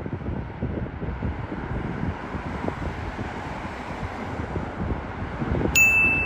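Low, steady jet engine rumble of an airliner, with wind buffeting the microphone. A brief high steady tone comes in near the end.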